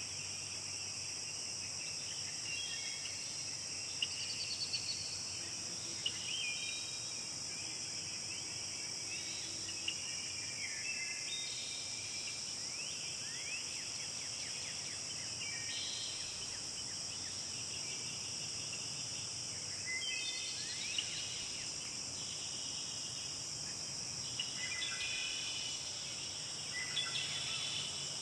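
Forest ambience: a steady high-pitched drone of insects, with birds singing short, varied phrases over it throughout.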